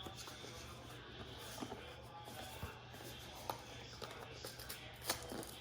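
Faint scattered clicks and taps of objects being handled, over a steady low hum, with a sharper click about five seconds in.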